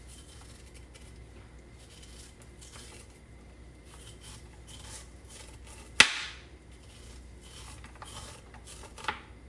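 Garden pruning shears snipping through plant branches: one loud sharp snip about six seconds in and a softer one about three seconds later, over a faint steady background hiss.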